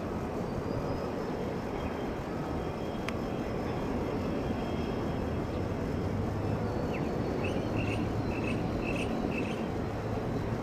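Steady low rumble of jet aircraft engines at an airport, with a faint high whine over it. A single sharp click about three seconds in, and a few short high chirps near the end.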